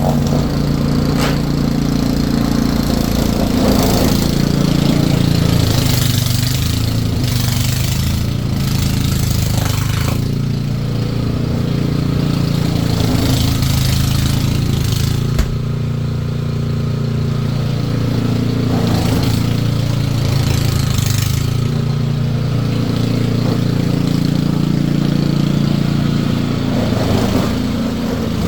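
An engine running steadily, its pitch shifting slightly up and down, with intermittent hissing over it.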